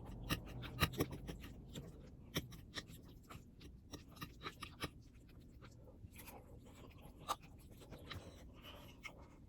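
Scattered clicks and light scrapes of a utensil against a dish during eating, the sharpest clicks near the start and about two and a half and seven seconds in.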